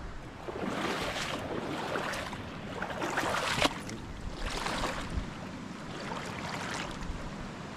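Knee-high rubber boots wading through a shallow creek: about five splashing, swishing steps, a second or so apart, over the steady run of the stream.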